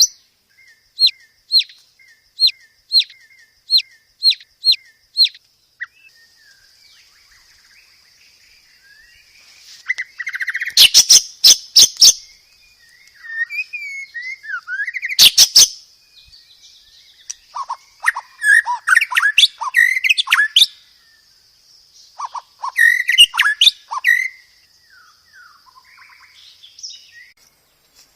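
White-rumped shama singing a varied song: first a run of about eight short sharp notes, then loud rapid trills and a mix of quick varied phrases, over a faint steady high tone.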